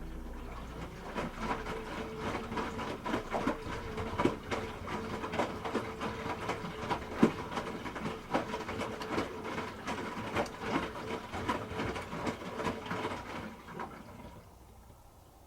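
Hoover H-Wash 300 Plus washing machine drum turning, its motor giving a steady whine under irregular clicks and knocks from the tumbling load. It dies away shortly before the end.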